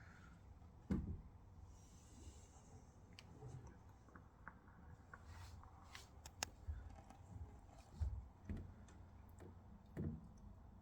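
Faint, irregular soft thumps and small clicks. The loudest knocks come about a second in, around eight seconds and around ten seconds.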